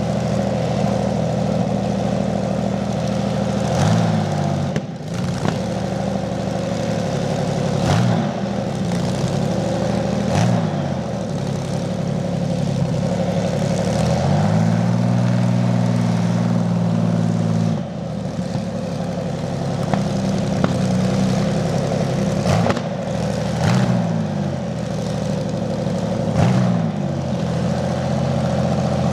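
Rolls-Royce/Rover Meteor V12 tank engine, a 27-litre petrol unit, running at a steady idle. It is blipped up and back down several times, and in the middle it is held at a higher speed for a few seconds before dropping back to idle.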